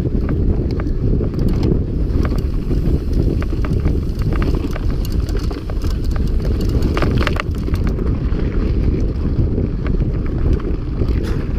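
Heavy wind buffeting on the microphone during a mountain-bike ride, with scattered rattles and clicks from the bike and its tyres on a dusty dirt trail, a denser burst of rattling about seven seconds in.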